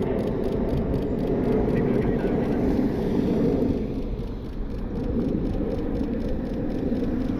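Steady low rumble of vehicle noise, easing a little about four seconds in.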